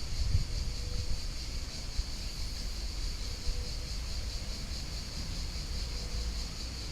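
Wind rumbling on the microphone over a steady, high-pitched insect chorus.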